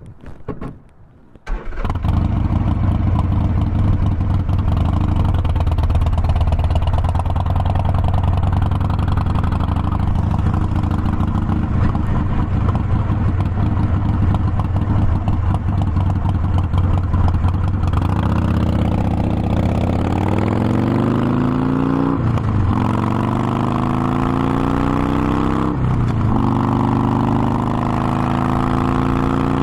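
Harley-Davidson Forty-Eight Sportster's air-cooled V-twin starting up about a second and a half in and idling steadily. Later it pulls away: the revs rise, drop at two gear changes and rise again.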